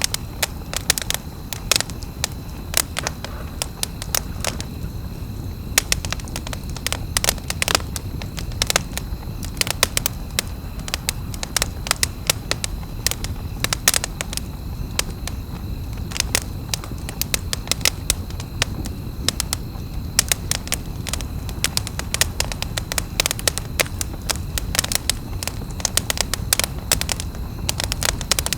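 Wood campfire crackling, with irregular sharp snaps and pops over a steady low noise of the burning fire.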